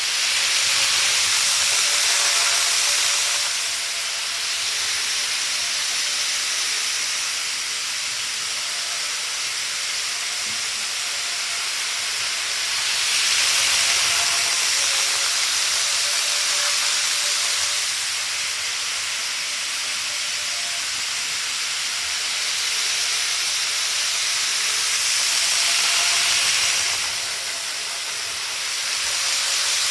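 Model train running on its track: a steady whirring hiss of small wheels and motor, with a faint motor whine, swelling louder about every twelve seconds as the train comes round past the microphone.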